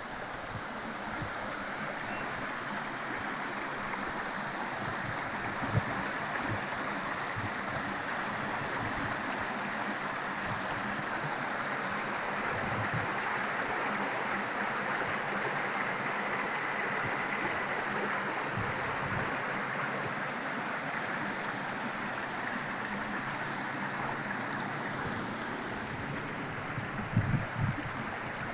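Steady rushing of running water, like a stream, with a few short low thumps near the end.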